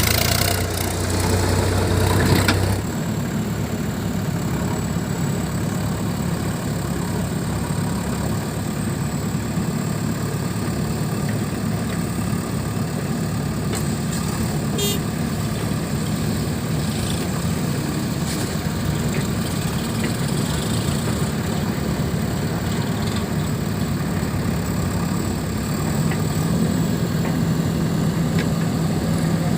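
Heavy diesel engine running steadily at low revs, a little louder for the first couple of seconds.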